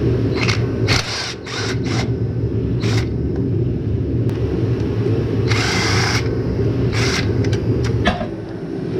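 Power drill or driver running in short bursts, the longest about half a second around the middle, while removing the fasteners of a scooter's air box. A steady low hum runs underneath.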